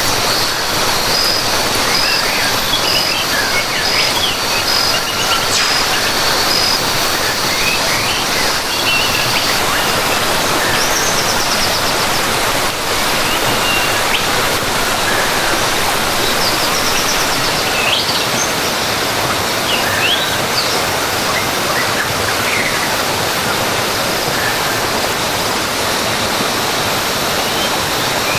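Steady rush of a waterfall with birds chirping in short, gliding calls over it. For the first third a high note repeats evenly, about twice a second, then stops.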